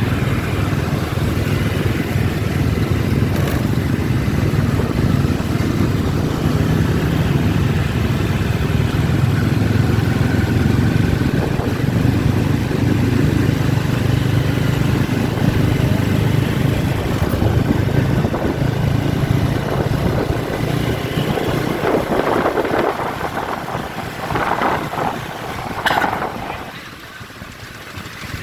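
Many motorbike engines running in dense street traffic, a steady low rumble that falls off about 26 seconds in.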